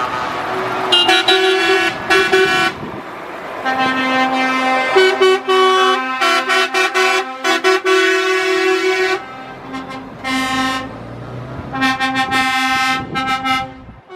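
Lorries in a passing convoy sounding their air horns: a series of loud horn blasts of several different pitches, some held for a second or more and some in quick short toots near the end, over the noise of the passing trucks.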